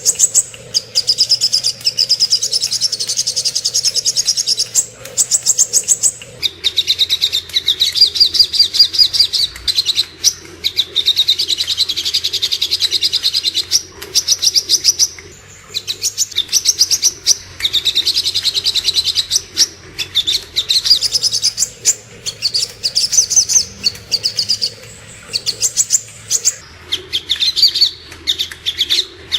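Song of the sogok ontong, a sunbird: rapid high-pitched chirping trills in repeated phrases a second or two long, broken by short pauses, over a faint low hum.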